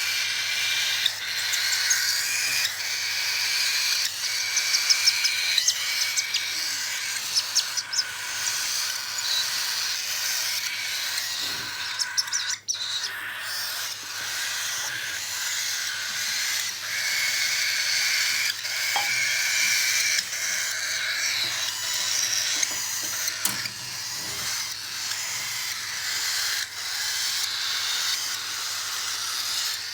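Cockatiel chicks giving raspy, hiss-like begging calls while being handfed, a steady run of short repeated pulses with scattered clicks.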